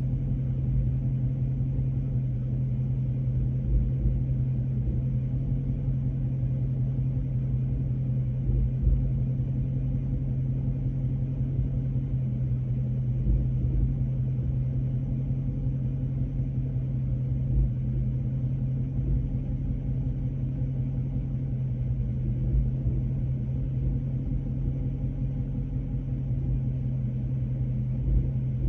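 Dodge Charger Scat Pack's 6.4-litre HEMI V8 running steadily with a strong low hum and a short low thump every few seconds. It is the rough, vibrating running at operating temperature whose cause the owner has not found.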